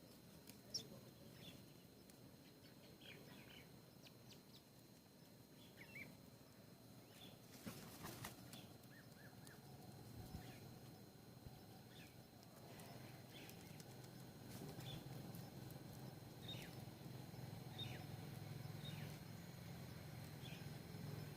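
Faint, scattered short bird chirps, with a couple of sharp taps and a low hum that grows louder in the second half.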